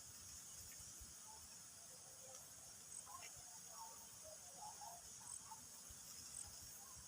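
Near silence with a faint, steady high chorus of crickets and other insects, and a few faint short chirps scattered through it.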